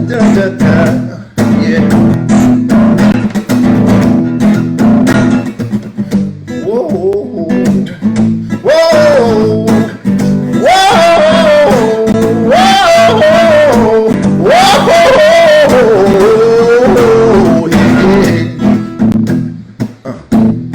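Solo acoustic pop song played live: strummed chords on an acoustic string instrument, with a wordless sung melody over them from about eight seconds in until near the end.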